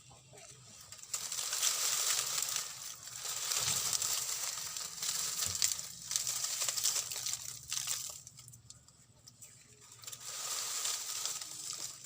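Dry leaf and wood material rustling and crackling as it is handled and pulled apart, in spells of a few seconds with a short pause about two-thirds of the way through.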